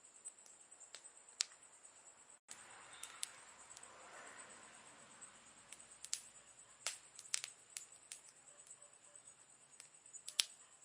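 Wood campfire crackling: irregular sharp pops and snaps, several close together about seven seconds in and a loud one near the end, over a faint steady high-pitched hum.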